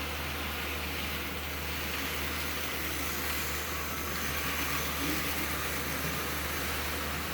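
Thomas the Tank Engine model train running on its track: a steady whir from the small electric motor and the wheels on the rails, over a constant low hum.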